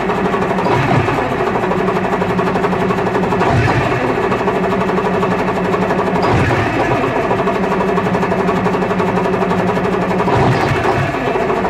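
Diesel engine of a 1990 Flxible transit bus idling steadily just after a cold start, having sat for weeks in the cold.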